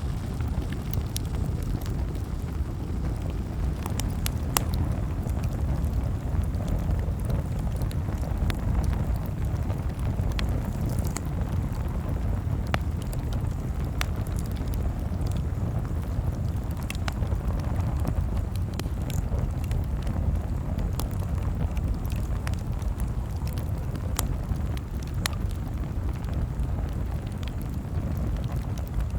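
Campfire crackling: irregular sharp pops and snaps every second or two over a steady low rumble.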